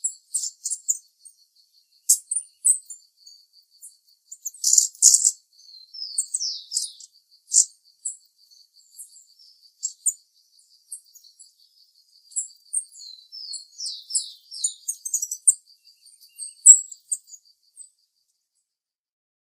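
Brassy-breasted tanager (sairá-lagarta) calling: high, thin chips and short downward-slurred notes in scattered clusters. A faint, evenly spaced series of high ticks runs beneath the calls.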